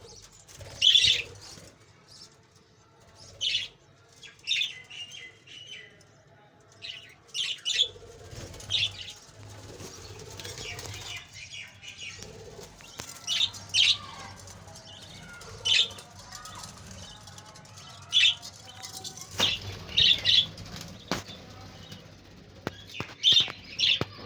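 Budgerigars (pet budgies) giving short, sharp chirps a second or two apart, with wings fluttering. A faint low hum runs underneath from about eight seconds in.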